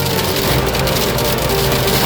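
Heavy rain beating on a pickup truck's cab, heard from inside, as a dense steady patter, with music playing over it.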